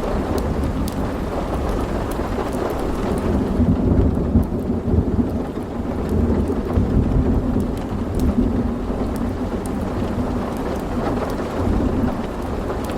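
Steady rain with a long roll of thunder that swells about three and a half seconds in and rumbles on for several seconds before easing. Small sharp crackles from a wood fire pop here and there.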